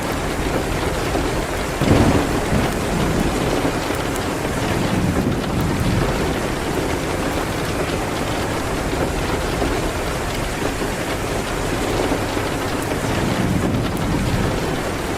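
Steady rain on a window with a low rumble of thunder that swells about two seconds in and dies away over several seconds, and a weaker rumble near the end.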